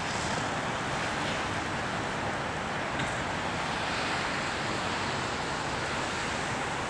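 Steady rushing outdoor noise, even throughout, with a faint tick about three seconds in.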